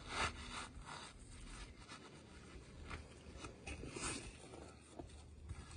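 Irregular scraping and rubbing strokes on asphalt roof shingles as a shingle is slid and worked in under the course above.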